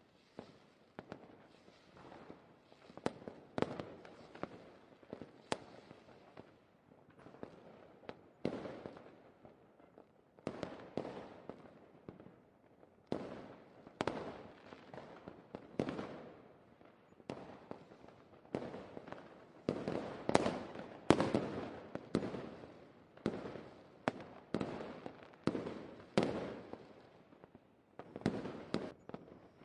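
Fireworks going off in a steady series of sharp bangs, about one or two a second, each trailing into crackle, busiest and loudest about two-thirds of the way through.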